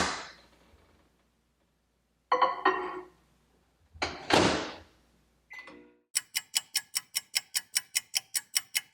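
Microwave oven being loaded and set: knocks and the door opening and shutting, a single short beep, then a fast even run of about fifteen clicks from its controls over the last three seconds.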